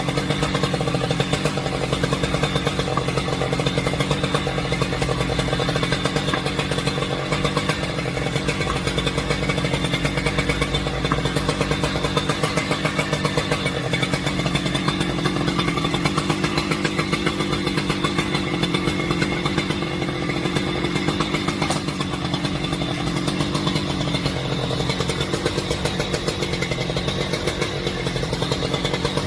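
Two-stroke chainsaw running steadily at a near-constant engine speed with no pauses.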